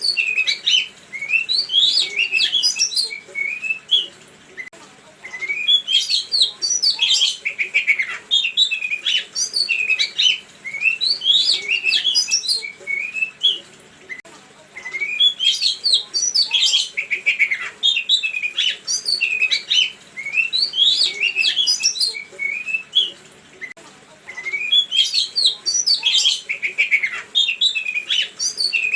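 A songbird singing in phrases of a few seconds, each a rapid run of varied chirps and whistles, with short pauses between phrases.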